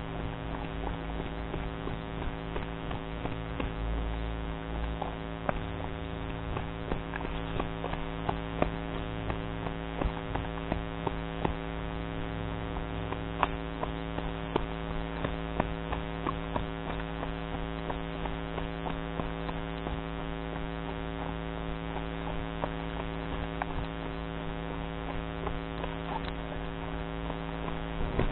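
Steady engine hum at an unchanging idle, with scattered sharp clicks and knocks through the middle of the stretch.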